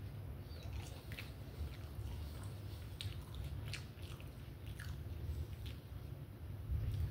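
A person chewing and eating fast food with the mouth close to the microphone: scattered wet smacks and clicks, over a steady low hum.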